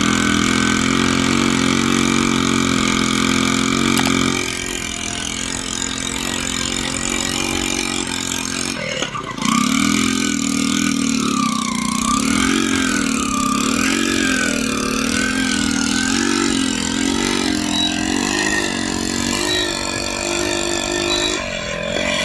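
35 horsepower Hornsby diesel engine running, steady for a few seconds at first. About ten seconds in, its pitch starts rising and falling roughly once a second.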